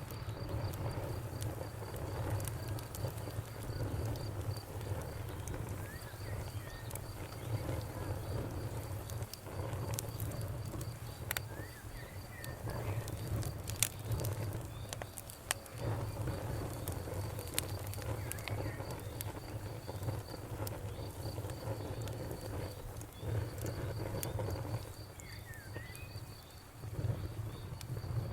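Wood fire crackling, with scattered sharp pops over a low steady rumble of the burning. A cricket chirps in an even high pulse behind it.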